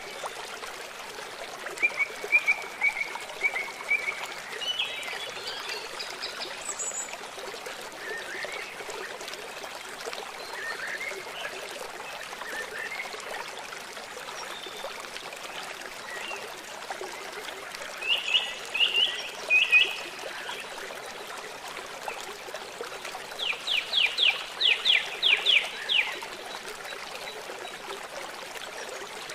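Birds calling over steady trickling water. There are scattered chirps throughout, a few loud sharp calls about two-thirds of the way in, and a quick run of rapid notes near the end.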